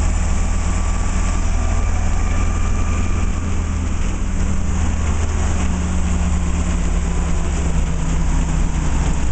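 Engine of the mufflermobile, a motorized muffler-shaped four-wheel-drive novelty vehicle, running steadily as it drives along, heard from on board. It makes a low, even drone, and its note steps down slightly about five seconds in.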